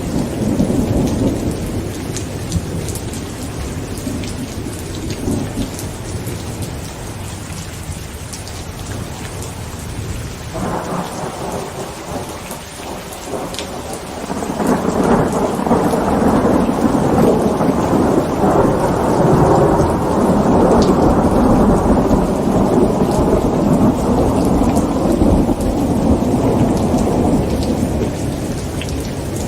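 Heavy rain drumming on a tent with thunder. Rumbling early on dies down, then about halfway through a long roll of thunder builds and rumbles on until near the end.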